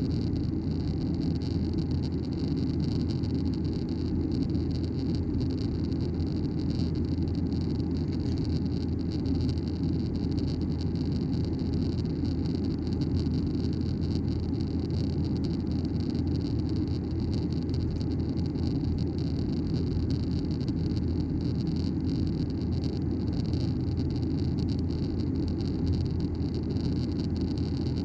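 Steady cabin noise of a Boeing 737-900ER in flight, a constant low drone of its CFM56 engines and rushing air with a faint hiss above it.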